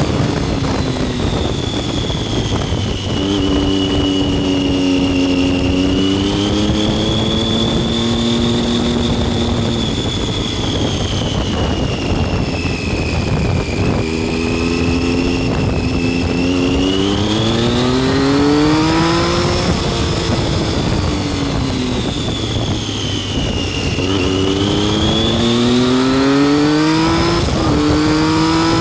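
Triumph Street Triple R's inline three-cylinder engine under way, climbing in pitch as it accelerates about three times and dropping back between, over constant wind noise on the microphone at riding speed.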